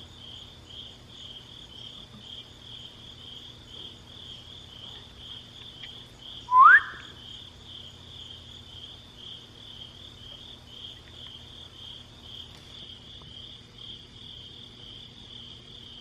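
Crickets chirping in a steady, fast-pulsing trill, with one short rising squeak about six and a half seconds in, louder than the crickets.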